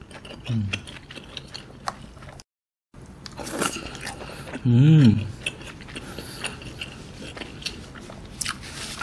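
Close-miked mouth chewing a bite of tteokbokki, the soft chewy rice cakes making wet clicks and smacks. A short hummed "mm" comes twice, louder the second time, about five seconds in.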